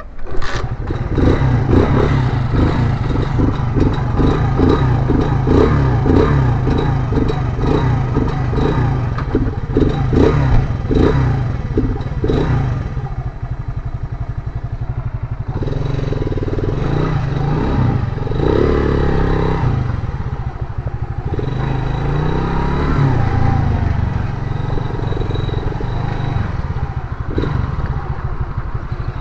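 Motorcycle engine running loudly while under way, starting abruptly just after the opening, with repeated clattering knocks through the first half.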